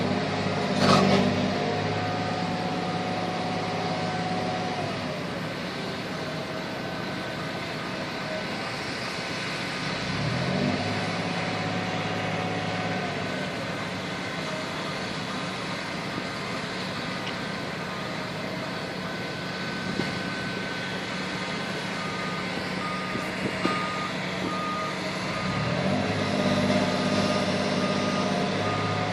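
Diesel engine of heavy demolition machinery running steadily, revving up about ten seconds in and again near the end, with a reversing alarm beeping in an even pulse over the last several seconds.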